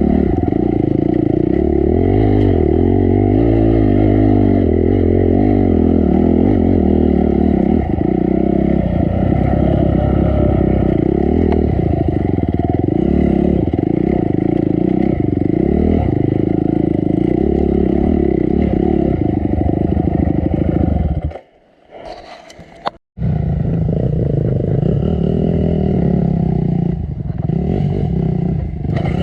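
Honda CRF250 single-cylinder four-stroke dirt bike engine running under load, its revs rising and falling constantly as the bike works over a rough off-road trail. The engine sound cuts out abruptly for about a second and a half roughly three-quarters of the way in, then comes back.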